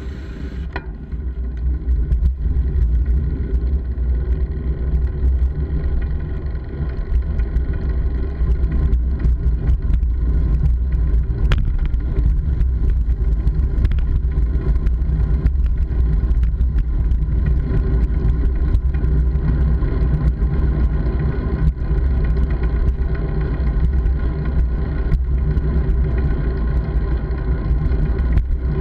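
Steady heavy rumble of wind and road noise from a moving bike, with many small knocks from bumps in the road.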